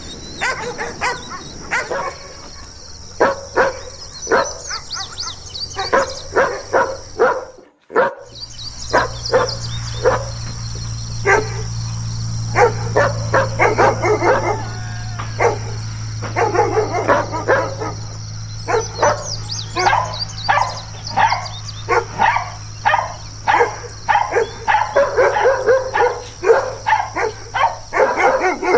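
Big guard dogs barking repeatedly in quick runs of barks, densest toward the end. There is a brief break about eight seconds in, after which a steady low hum runs under the barking.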